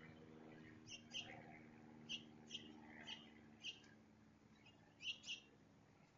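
Small songbirds at a feeder giving short, high chirps, about nine scattered irregularly, some in quick pairs, over a faint steady low hum.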